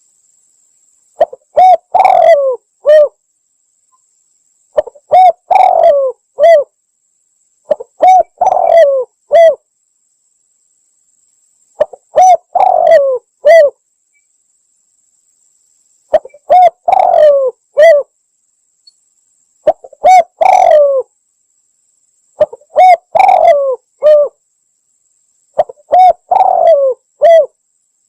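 Spotted dove (tekukur) cooing in short phrases of a few coos each, repeated about every three to four seconds, eight phrases in all: a lure call for attracting doves.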